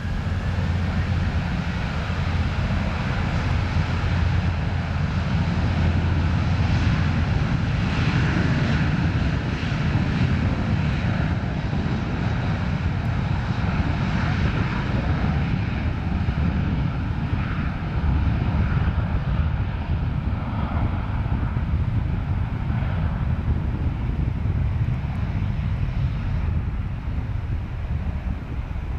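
Airliner jet engines running, a loud steady low rumble with a rushing hiss above it that swells a few seconds in.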